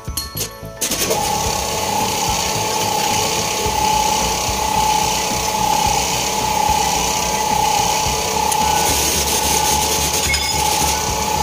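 A loud, steady mechanical running noise starts suddenly about a second in, with a high whine that swells and fades about once a second.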